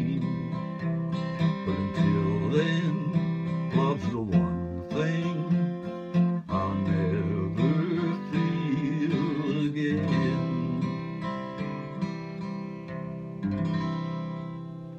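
Acoustic guitar strummed through the closing bars of a country ballad. A final chord is struck near the end and rings out, fading away.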